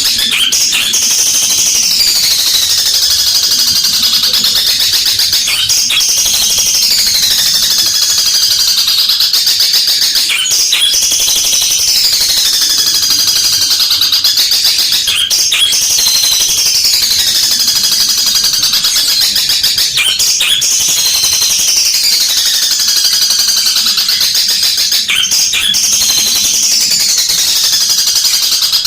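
Long-tailed shrike (cendet) singing loudly and continuously: a dense, high-pitched song with a falling phrase repeating about every five seconds, along with sharp clicks.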